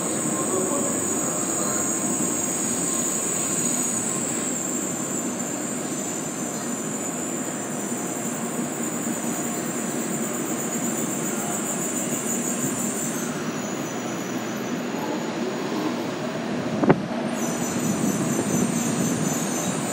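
Tokaido Shinkansen N700A series train rolling slowly into the station as it brakes to a stop, a steady rumble of wheels on rail with a high whine over it. A single sharp click sounds near the end.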